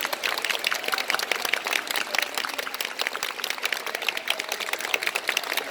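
Crowd applauding: a dense, even patter of many hands clapping.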